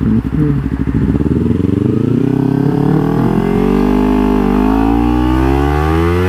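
Kawasaki Ninja 300's parallel-twin engine idling with an uneven pulse, then pulling away and accelerating, its pitch climbing steadily with a brief dip about four seconds in.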